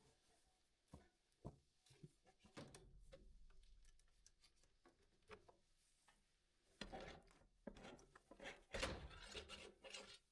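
Faint scattered knocks, with two stretches of scraping and rubbing in the second half, as removable pen panels are handled and lifted out.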